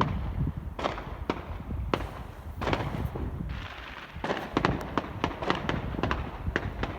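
Fireworks going off: irregular sharp bangs and crackles over a low rumble.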